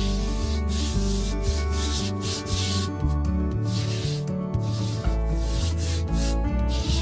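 Repeated scrubbing strokes, a cloth or brush rubbing hard across a surface roughly once a second while cleaning, over background music with low bass notes.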